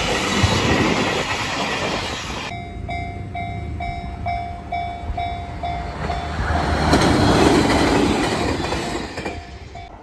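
An electric commuter train passing close, its wheels rolling on the rails. About two and a half seconds in it cuts to a Japanese level-crossing warning bell ringing about twice a second while a second train approaches and passes, loudest from about seven to nine seconds in.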